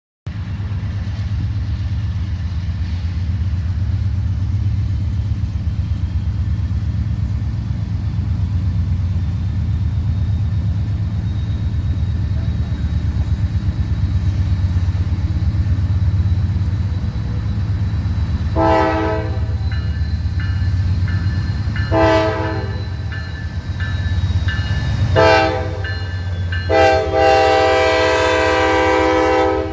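Diesel locomotive running with a steady low engine rumble, then sounding its multi-chime air horn four times in the last third: three shorter blasts and a long final one held nearly three seconds.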